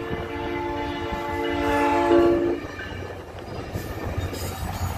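SunRail commuter train's horn sounding a long chord of several notes, loudest just before it cuts off about two and a half seconds in. The train then rumbles across the grade crossing.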